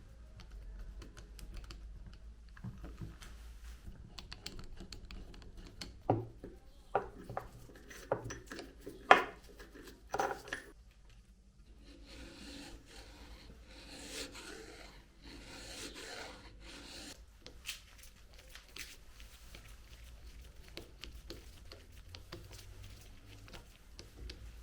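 Workshop handling noises: scattered light clicks, a handful of sharp knocks about six to ten seconds in, and a stretch of scratchy rubbing a few seconds later.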